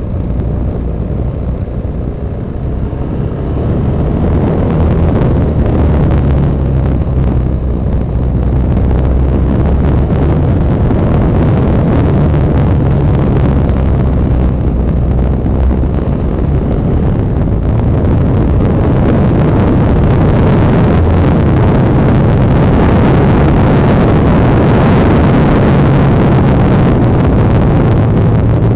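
Honda NX650 Dominator's single-cylinder four-stroke engine running under way on a twisty road, its low thump shifting in pitch with the throttle. Wind rush sounds throughout, and the whole sound grows louder from about four seconds in.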